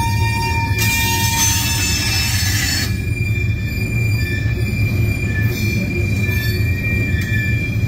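Loaded gravel hopper cars of a freight train rolling past with a steady low rumble of wheels on rail and a thin, high, steady wheel squeal. A louder hissing screech rises from about one to three seconds in.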